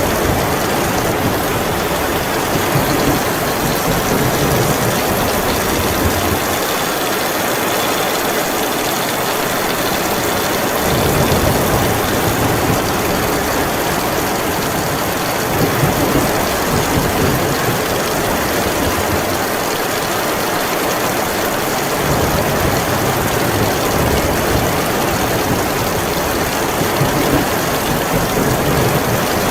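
Heavy rain falling in a steady, dense hiss, with a low rumble that swells and fades several times beneath it.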